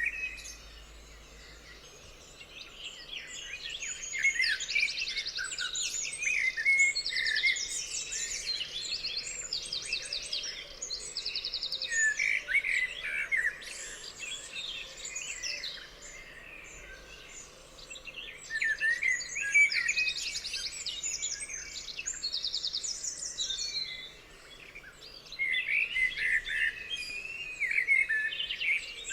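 Several songbirds singing and calling over one another in a dawn-chorus-like mix of whistles and chirps, with rapid trills of quickly repeated notes coming back again and again. The song thins briefly near the start and again near the end.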